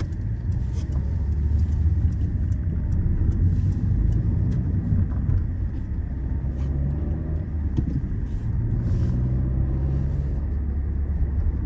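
Peugeot 207 driving, heard from inside the cabin: a steady low rumble of engine and road noise.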